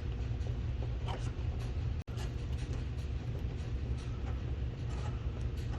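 A steady low hum with a few faint light clicks and taps over it, cut by a brief dropout about two seconds in.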